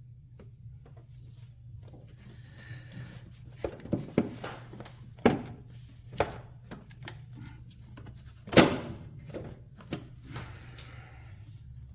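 Scattered knocks and clatter of the air intake tube and engine-bay parts being handled and pushed into place, over a steady low hum. The knocks cluster from a few seconds in, the loudest one about eight and a half seconds in.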